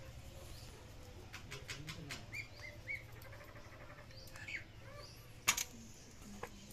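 Small birds chirping now and then in the background, with a few light clicks from handling and one sharp tap about five and a half seconds in, over a low steady hum.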